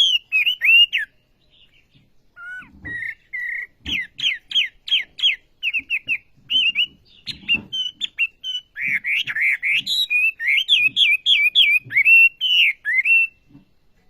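Wambi songbird singing vigorously: rapid strings of sharp, down-swept whistled notes, broken by a brief pause about a second in, then running on in a long fast series that ends just before the close.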